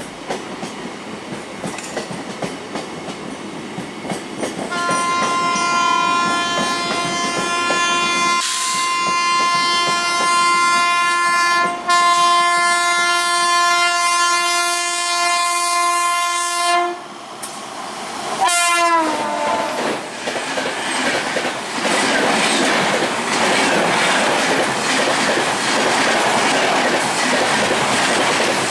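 Express passenger train approaching with its locomotive horn held for about twelve seconds. The horn cuts off, sounds again briefly and drops in pitch as the locomotive passes. The coaches then rush by, their wheels clattering over rail joints.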